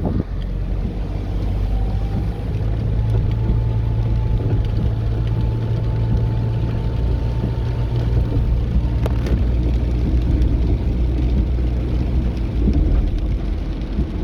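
Car driving in heavy rain: a steady low drone of engine and road noise under the hiss of rain. A faint steady whine sounds for several seconds in the middle.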